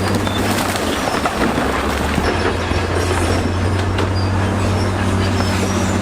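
Crawler bulldozer at work: a steady diesel engine tone under the clanking of its steel tracks, with short high-pitched squeaks from the track links.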